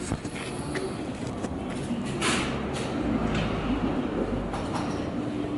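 Buell X1 Lightning's air-cooled V-twin engine running steadily without abnormal noise, with a deeper rumble for a couple of seconds past the middle.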